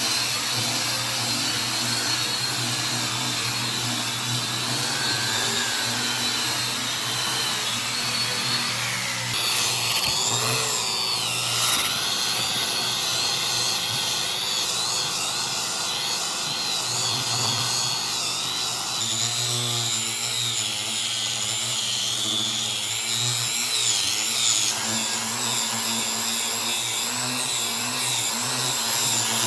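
An electric hand power tool running continuously, its motor pitch wavering up and down as it is worked, with a change in its sound about nine seconds in.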